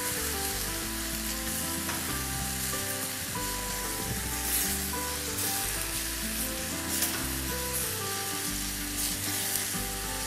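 Lomo saltado (beef strips, onion, peppers, tomato and fried potatoes) sizzling steadily in a hot pan as it is turned with tongs, with a few light tong clicks, over background music with held notes.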